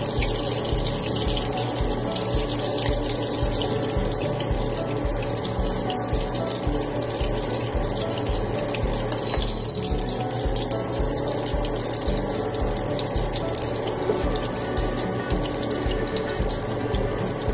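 Hotdogs frying in shallow hot oil in a pan: a steady, dense sizzle throughout. Background music with a steady low beat runs underneath.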